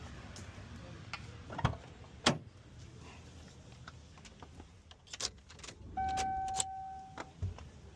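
Keys clinking and clicking as they are handled, a few sharp clicks, then a steady electronic beep lasting just over a second about six seconds in.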